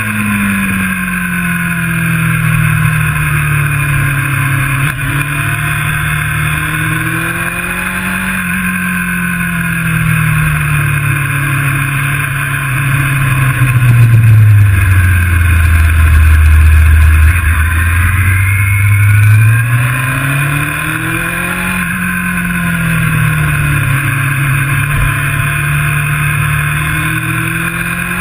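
Sport motorcycle engine heard from the rider's seat on track, its pitch rising and falling as the rider accelerates and shuts off for corners, over steady wind rush. The engine note drops low and is loudest about halfway through.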